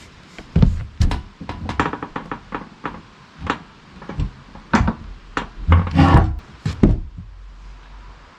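Irregular knocks and thuds as a heavy log is pried and shifted on a small sawmill's bed with a lever, wood and steel knocking together.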